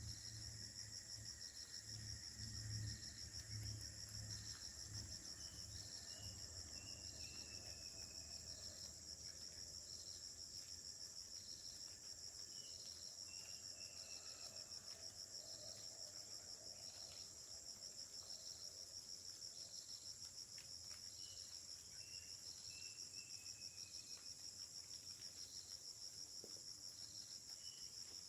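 Tropical forest insects shrilling steadily in several high, finely pulsing tones, with another call pulsing about once a second. Three runs of short falling chirps come and go, and a low rumble sits under the first few seconds.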